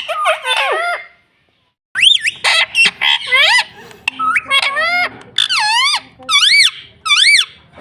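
Pet parrot calling: a short burst of squawks at the start, then, from about two seconds in, a rapid run of loud squawking calls, each rising then falling in pitch.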